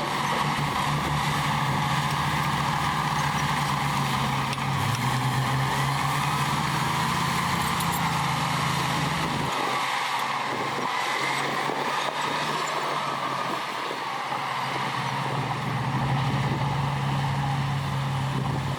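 Heavy diesel engine of earthmoving machinery running steadily. About halfway through its low note falls away, and it comes back strongly a few seconds later.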